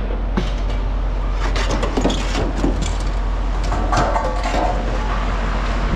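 A steady low engine-like hum runs under scattered knocks and clatter.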